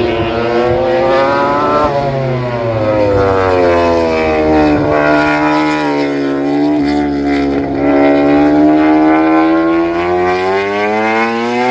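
An engine running hard with a steady, strongly pitched note that dips sharply about two seconds in, then sags and climbs slowly over several seconds.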